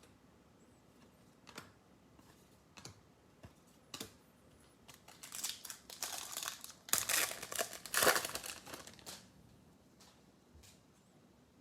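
Foil wrapper of a Bowman baseball card pack being torn open and crinkled, crackling in a burst from about five to nine seconds in, after a few faint taps.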